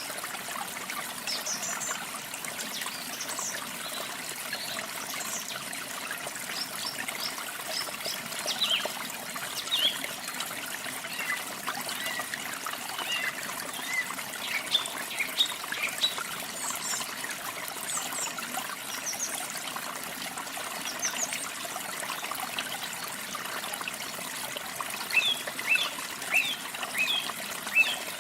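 Water trickling steadily, with small birds chirping over it in short, scattered chirps that come in bunches.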